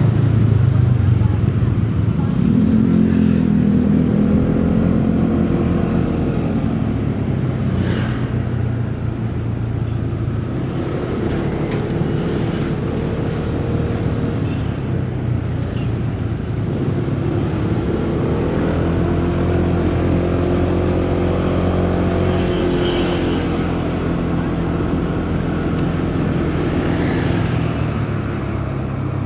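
Motorcycle engine running under way, its pitch rising and falling as the bike speeds up and slows, amid city traffic noise.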